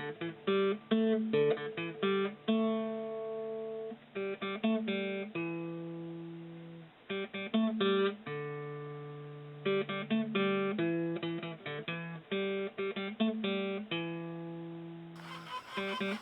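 Acoustic guitar music: plucked and strummed notes in quick rhythmic runs, broken by longer ringing chords.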